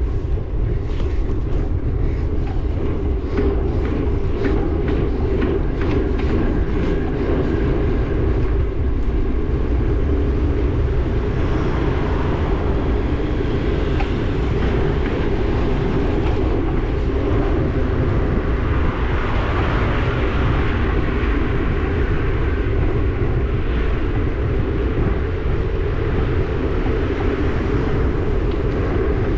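Steady road noise of riding a bike along a road: a constant low rumble with wind rushing over the microphone, and some brief crackles in the first several seconds.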